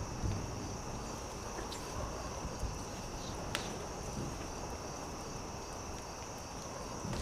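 Campfire crackling, with scattered sharp pops, one louder about three and a half seconds in, under a steady high chirring of insects.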